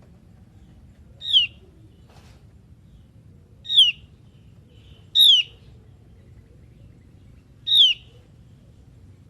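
Javan grey-throated white-eye (opior jawa) calling: four short, high, downward-sliding whistled notes, spaced one and a half to two and a half seconds apart.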